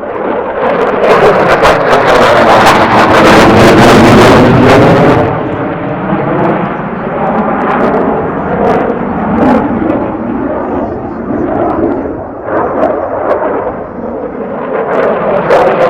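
An aircraft flying past: loud engine noise that swells in the first second, peaks about four seconds in, then eases off while staying loud, with a sweeping, wavering tone as it passes.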